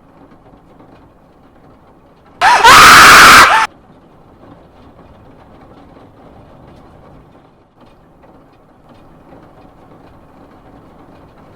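Faint steady hiss, then about two and a half seconds in a sudden, very loud, distorted shriek lasting about a second, its pitch rising and then falling, before the faint hiss returns.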